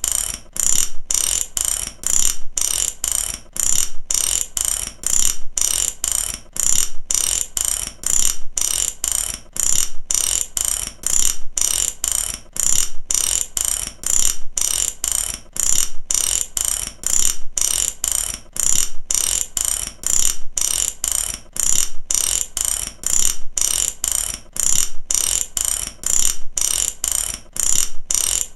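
Ratchet clicking in short, fast runs, each broken off by a brief pause about twice a second, in a steady repeating pattern.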